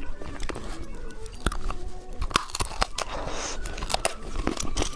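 Close-miked mouth sounds of someone biting and chewing candy: irregular sharp crunchy clicks and wet crackles.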